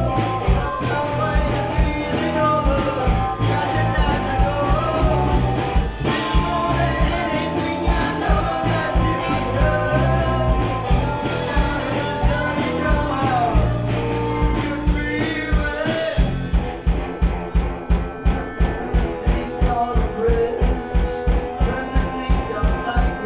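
Gypsy rock band playing live: singing over guitar, accordion, bass and drums. About two-thirds of the way in the band drops out suddenly, leaving a steady drum beat of about four hits a second under a few held notes.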